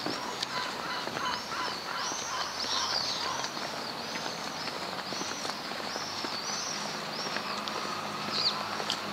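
Many birds chirping and calling together, a dense run of short arched calls overlapping throughout, over a faint steady background hum.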